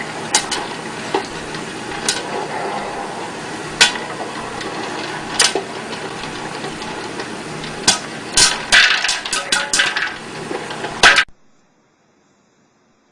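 Sharp knocks and clatters over a steady background noise: single ones every couple of seconds, then a quick run of them near the end before the sound cuts off suddenly.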